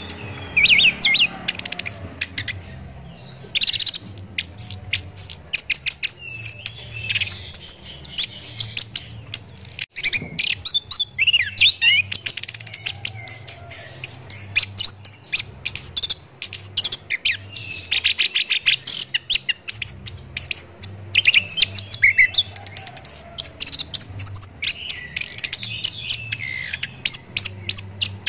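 Orange-headed thrush (anis kembang) singing a fast, varied song of chirps, rapid trills and sweeping whistles, nearly nonstop with brief pauses.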